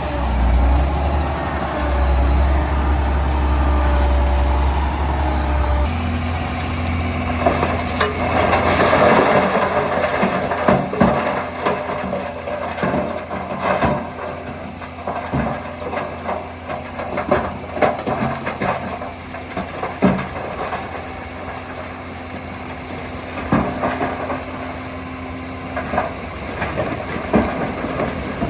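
Heavy diesel engine of earthmoving machinery running steadily. About six seconds in, its note changes and a rushing hiss swells for a couple of seconds. After that, scattered knocks and clanks go on over the engine.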